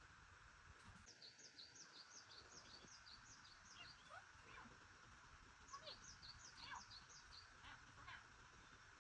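Faint bird chirping: quick runs of short, high, falling chirps, in two bursts, over a quiet outdoor background.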